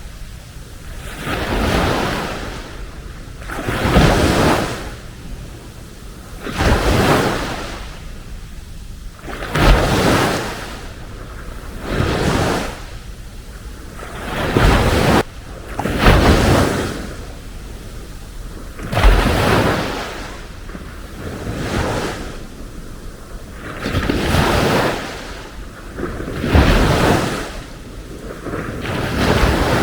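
Small sea waves breaking and washing up the beach, one after another about every two to three seconds, each surge swelling and then fading into a softer hiss.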